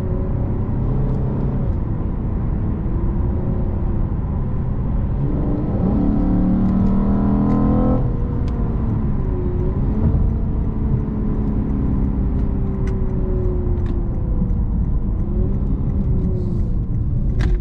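Lexus RC 350 F Sport's 3.5-litre V6 with a Takeda cold air intake, heard from inside the cabin with the windows up while driving. About six seconds in the engine pulls harder and its pitch climbs for two seconds, then drops off suddenly and runs on at a lighter load with a gently wavering tone.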